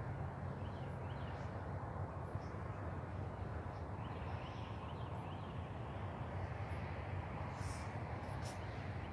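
Steady outdoor background hum and noise at daybreak, with faint, scattered bird chirps.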